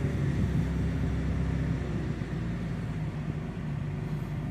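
1991 Mitsubishi 3000GT VR4's twin-turbo V6 idling steadily, heard from inside the cabin, with the air-conditioning fan blowing.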